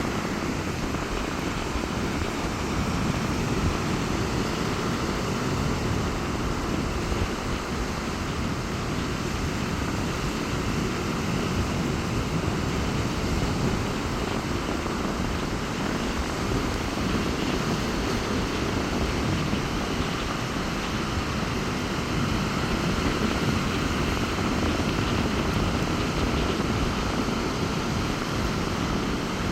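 Rough-sea surf breaking steadily on a beach, a continuous deep rumble of waves, with strong wind blowing on the microphone.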